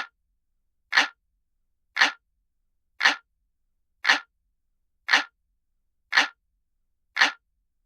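Recorded clock ticking sound, as used on a countdown timer: one sharp tick about every second, all alike, with silence between them.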